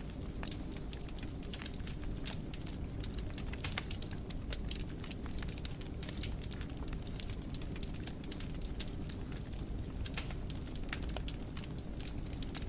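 Wood fire crackling in a fireplace: many sharp pops and snaps over a low, steady rumble of the flames.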